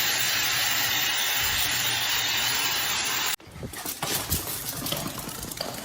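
A steady hissing rush of noise that cuts off abruptly about three seconds in, giving way to quieter scattered clicks and knocks.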